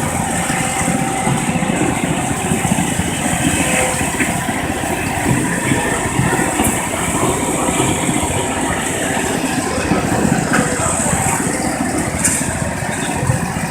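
Garden tractor engine running steadily at the pulling track.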